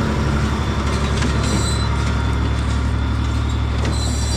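Tractor engine running steadily while pulling a small square baler through the hay, with the baler's mechanical clicking. Two brief high-pitched squeaks come through, about a second and a half in and again near the end.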